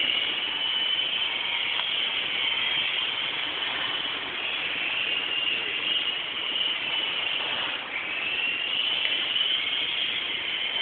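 Small model helicopter's electric motor and rotor whining in flight, the high pitch wavering up and down, dropping briefly about eight seconds in and climbing back.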